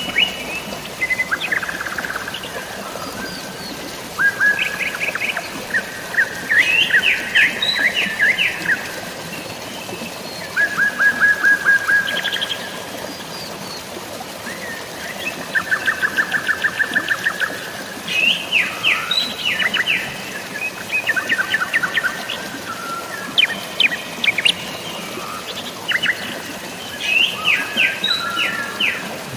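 Songbirds chirping in short repeated phrases and rapid trills, in bouts with brief pauses between them, over a steady hiss of light rain and flowing water.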